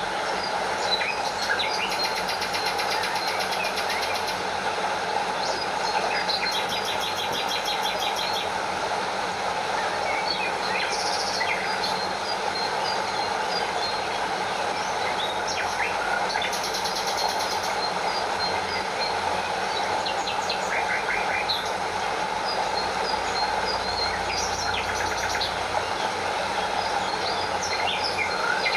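A stream and small waterfall running with a steady rush of water, with birds chirping now and then and cicadas trilling in several short, rapidly pulsing bursts.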